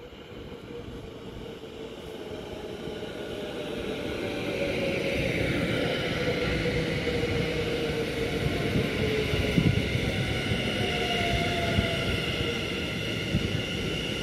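Dutch NS Sprinter electric commuter train approaching and running past, growing louder over the first few seconds, then holding steady. Its electric motors whine in tones that slowly fall in pitch, over rumbling wheels, with a few sharp clacks from the wheels in the second half.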